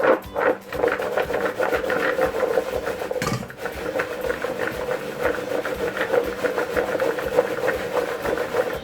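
Peanuts being worked around in a bowl of flour coating, a fast rhythmic rubbing and rattling with a short break about three seconds in.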